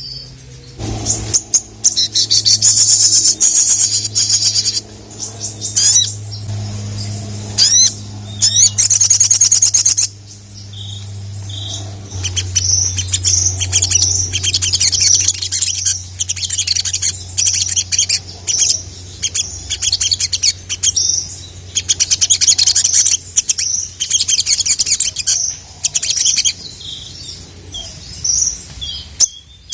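Sogon (sogok ontong), a sunbird, singing loudly: rapid high-pitched chirps and fast trills in repeated bursts, with a steady low hum underneath.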